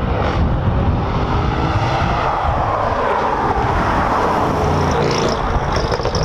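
Audi RS6 Avant's twin-turbo V8 accelerating hard past. The engine note climbs as the car approaches, then drops in pitch as it goes by about three to four seconds in, and carries on as it pulls away.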